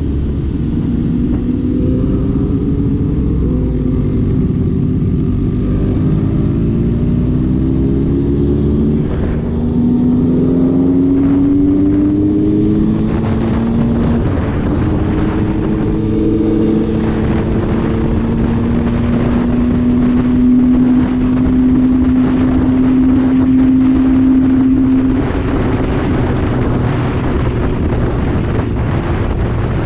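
MV Agusta Dragster RR's three-cylinder engine under way, pulling up through the gears with its pitch climbing in repeated steps, then holding one steady note for several seconds before easing off. Wind and road noise run underneath.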